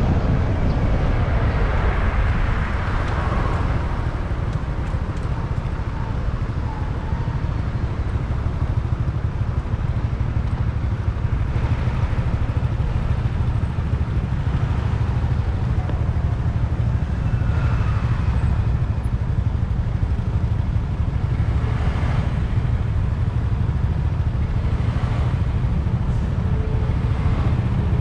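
Motorcycle riding in city traffic: the bike's engine and other vehicles under a steady rumble of wind on the microphone.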